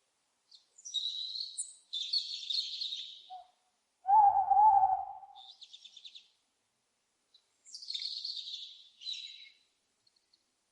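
Owls calling: raspy, high screeches in several bursts, and about four seconds in one louder, lower wavering call lasting about a second.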